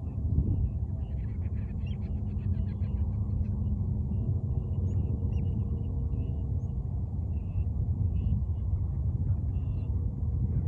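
Birds chirping in short, scattered calls over a steady low rumble, with a quick run of rapid chattering from about one to three and a half seconds in.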